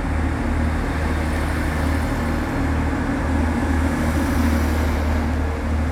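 Transpennine Express train running steadily at the platform, a low even hum with no change in pitch.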